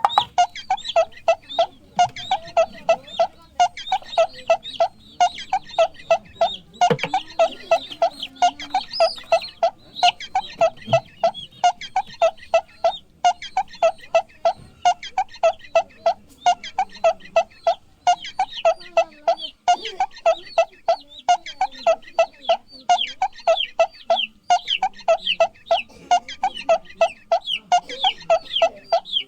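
Chickens clucking continuously in quick short calls, several a second.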